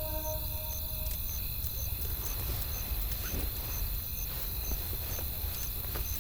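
Campfire crackling with scattered sharp pops over a steady low rumble of wind, and a faint high chirp repeating about twice a second.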